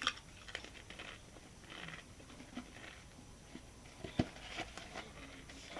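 Quiet chewing of a Pringles potato crisp: soft, irregular crunches and crackles, with one sharper click about four seconds in.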